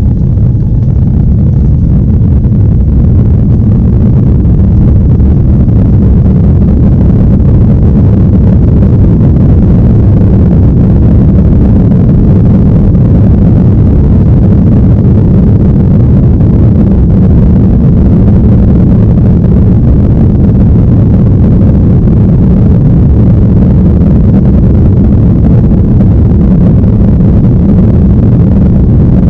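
Airliner cabin noise: the jet engines and airflow make a loud, steady low rumble that does not change.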